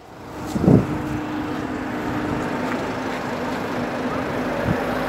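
Minibus engine idling with a steady hum, after a short loud sound under a second in.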